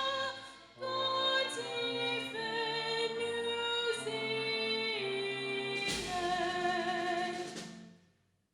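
A woman singing a national anthem solo, with held notes and vibrato. The music fades out near the end.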